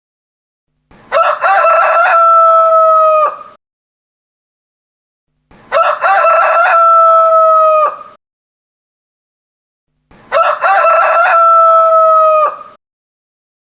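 Rooster crowing three times, about four and a half seconds apart. Each crow lasts about two and a half seconds: a few short opening notes, then a long held note that drops at the very end.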